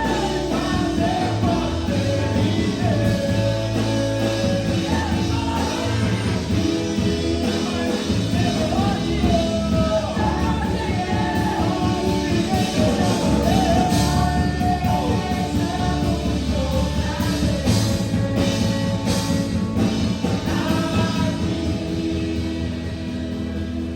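Live worship band playing with a singer over a steady beat, in a large hall.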